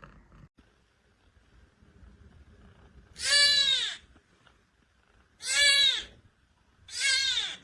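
A cat meowing three times, loud drawn-out meows that rise then fall in pitch, about a second and a half apart.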